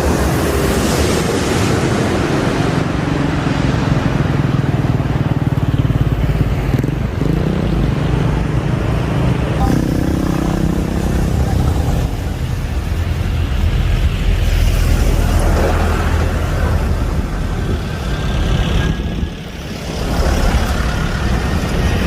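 Loud, steady mix of jet airliner engine noise and road traffic at the runway's edge, with a brief dip about nineteen seconds in.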